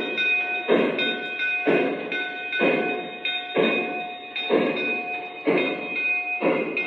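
Model steam locomotive's onboard sound system playing slow steam chuffs, about one a second, with a steady ringing tone alongside.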